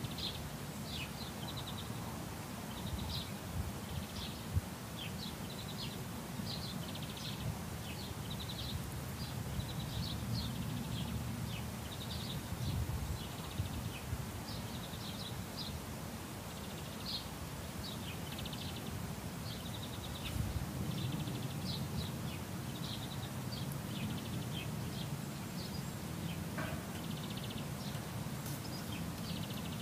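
Small birds chirping and twittering repeatedly in short calls and brief trills, over a steady low outdoor rumble.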